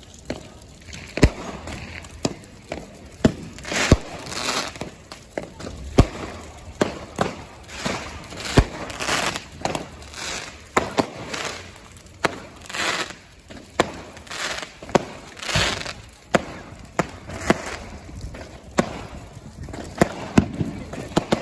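Fireworks going off: irregular sharp bangs, roughly one every second or two, with crackling and fizzing bursts between them.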